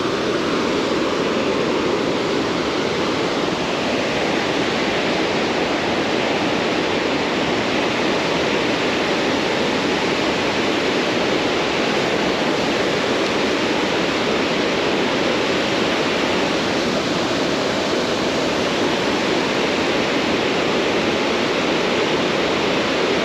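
Water pouring over a roller dam on a river: a steady, unbroken rush.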